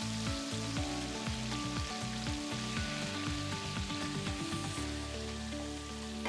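Marinated chicken wings deep-frying in hot oil, a steady sizzle, with background music playing under it.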